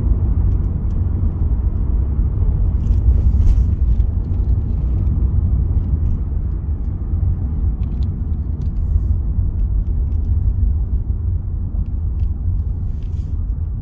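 Wind buffeting the microphone: a steady low rumble, with a few faint rustles on top.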